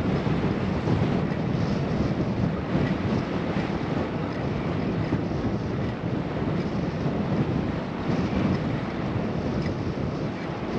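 Wind rushing over a camera microphone while riding a bicycle: a steady, deep rushing noise that swells and dips slightly.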